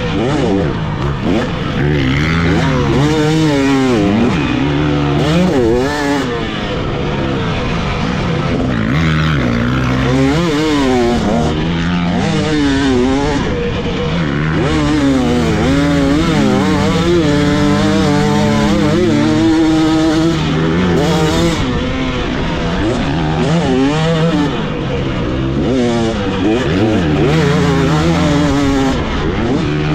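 Dirt bike engine ridden hard, its pitch climbing and falling again and again as the throttle is opened and rolled off through the track's corners and jumps.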